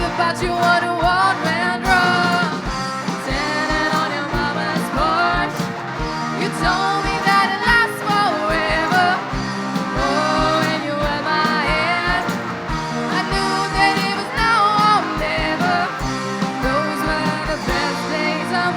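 Rock music: a lead electric guitar plays a melody with bent, sliding notes over a band and a steady kick-drum beat of about two a second.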